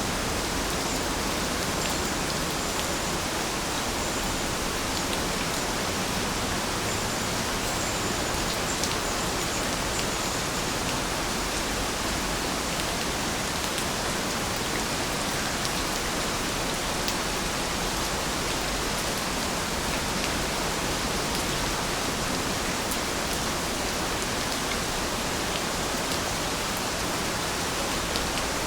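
Steady rainfall, an even hiss with small drops ticking on surfaces. A faint high chirping runs through it from about one second in to about eleven seconds in.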